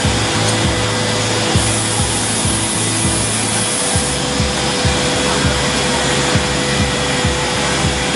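CNC wood router cutting wood: a steady cutting and spindle noise with a held tone, and short low thuds about twice a second.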